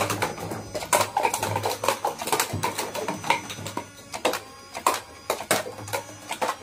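Plastic toy guns clicking and clattering: a string of irregular sharp clicks and knocks, with a low hum underneath at times.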